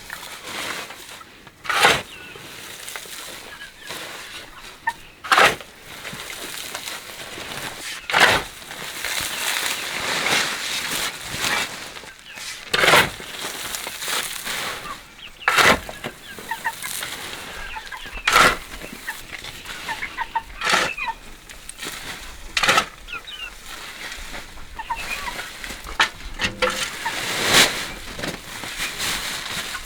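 Chickens clucking, with a loud knock or swish about every two to five seconds.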